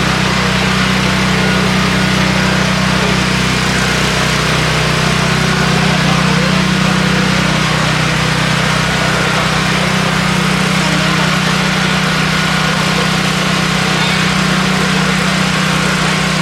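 An engine idling steadily with a constant low hum, alongside indistinct voices in the background.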